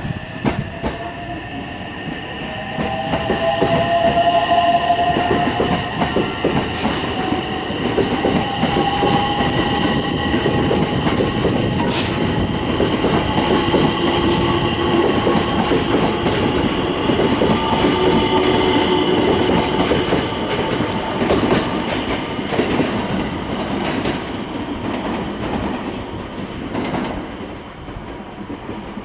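Electric train running along the platform, its wheels clicking over rail joints, with several high steady whining tones. It grows louder about three seconds in and fades near the end.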